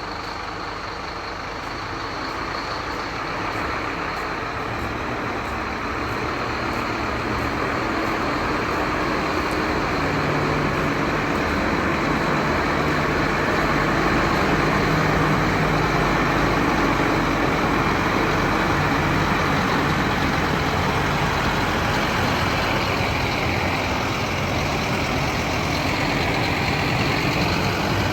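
Truck engine running, growing louder over the first ten seconds or so and then holding steady.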